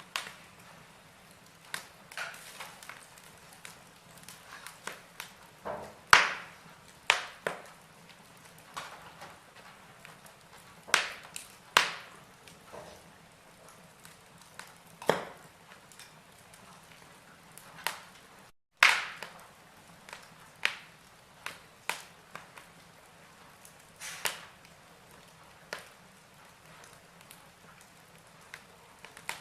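Burning logs in a fireplace crackling: irregular snaps and pops of varying loudness over a faint steady hiss, with a few louder pops about six seconds in and around the twenty-second mark. The sound breaks off for a split second just before one of the loudest pops.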